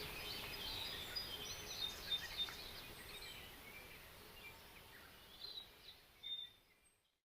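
Birds chirping and singing, short high chirps and whistles over a faint background hiss, fading out to silence near the end.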